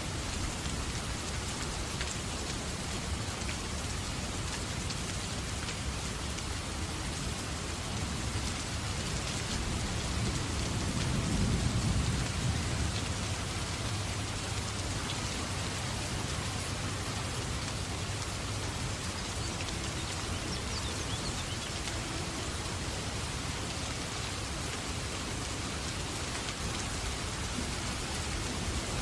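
Steady rain falling, an even hiss. A low rumble swells and fades about eleven seconds in.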